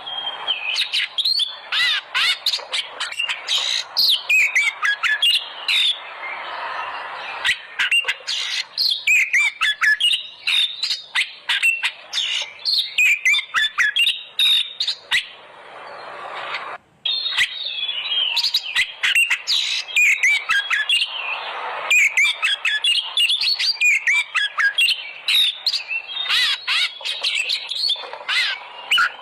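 Oriental magpie-robin (kacer) singing a fast, varied song of rising and falling whistles mixed with harsh, clicking chatter, broken by one short pause about seventeen seconds in.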